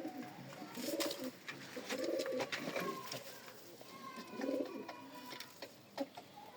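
Domestic pigeons cooing: a few low, rounded coos spaced a second or two apart, with scattered sharp clicks between them.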